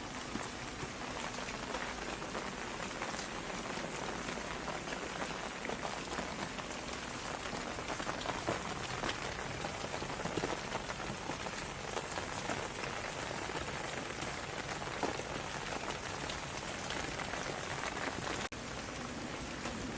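Steady rain falling, many separate drops tapping over a continuous hiss. The sound cuts out for a split second near the end, then goes on unchanged.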